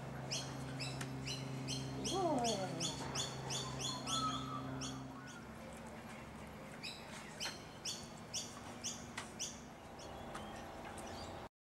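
A bird chirping in a quick, even series of short high chirps, about three a second, stopping for a couple of seconds midway and then starting again. A brief falling whine comes about two seconds in.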